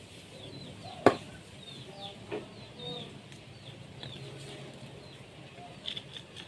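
Birds chirping over and over in short, quick notes, with one sharp knock about a second in and a softer knock a little over a second later.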